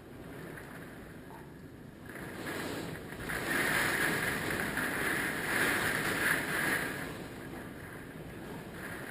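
Hurricane wind gusting. It swells about two seconds in, is strongest for several seconds, then eases off.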